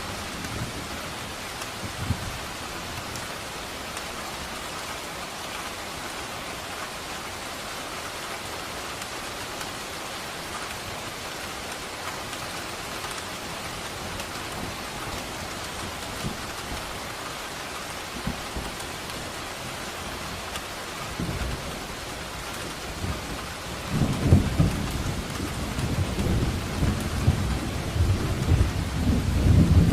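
Steady rain with thunder: a short low rumble about 21 seconds in, then a louder rolling rumble of thunder from about 24 seconds in to the end.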